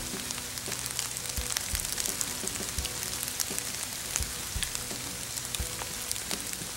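Pouring rain falling on leaf litter and brush: a steady, dense hiss with many close drops ticking through it.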